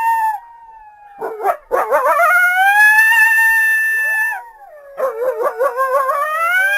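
Coyote howling: a long rising howl held steady for a couple of seconds, then a wavering, quavering howl broken by yips.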